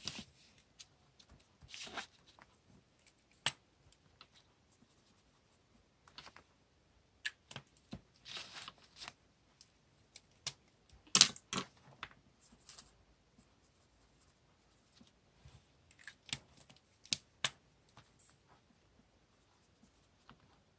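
Desk-top paper and stationery handling while decorating a diary: short rustles of paper and sticker sheets, with scattered sharp taps and clicks, the loudest about eleven seconds in.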